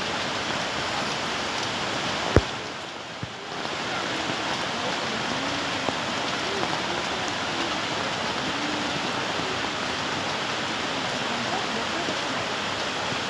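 Steady rushing noise of a flooded stream in spate. A single sharp click comes about two and a half seconds in, followed by a brief dip lasting about a second.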